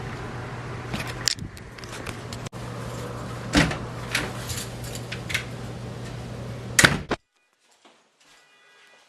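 A car's engine idling as a steady low hum, with several sharp clicks and knocks of a car door and interior fittings being handled, the loudest about three and a half and seven seconds in. About seven seconds in the sound cuts off suddenly.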